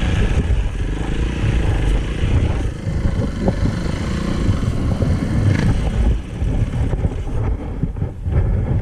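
Dirt bike engine running and revving unevenly, its pitch rising and falling, over a heavy low rumble.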